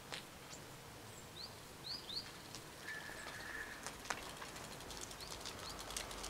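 Small birds chirping with short rising calls in a few quick runs, faint over quiet outdoor background. A brief steady tone sounds about three seconds in, with a few faint clicks.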